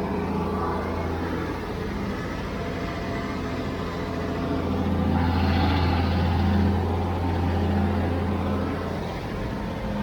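Diesel engine of a heavy construction machine running steadily, its drone growing louder about halfway through and easing off again near the end.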